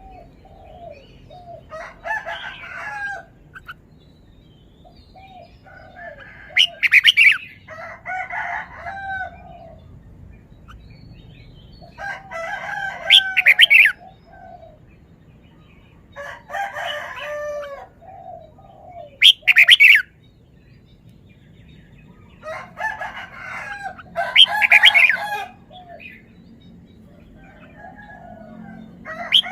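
Red-whiskered bulbul singing short, bubbling warbled phrases, one every few seconds, about seven times.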